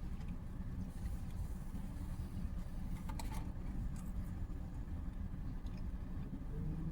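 Steady low rumble of vehicle noise, with a few faint clicks about three seconds in.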